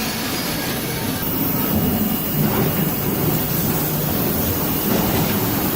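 Automated sawmill line running: a steady, loud mechanical din of saws and conveying machinery.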